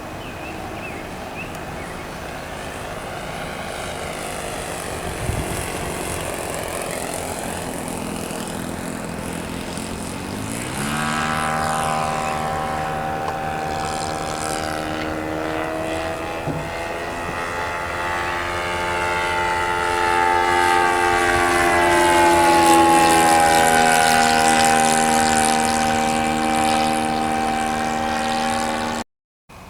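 Saito .82 four-stroke glow engine of an RC model plane running. Its pitch climbs about ten seconds in, then holds steady while growing louder, and the sound cuts off suddenly near the end.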